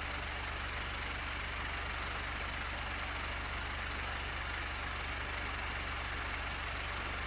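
Electric fan running steadily: an even rush of air from the blades over a constant low motor hum.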